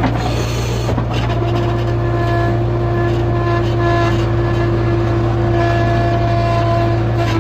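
A vehicle engine running steadily with an even low drone and a few steady higher tones over it.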